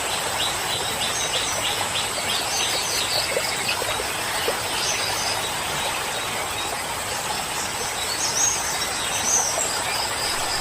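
Forest river water rushing steadily, with songbirds singing over it: a quick run of repeated chirps in the first three seconds, then scattered chirps and short phrases. A thin, steady high whine runs underneath.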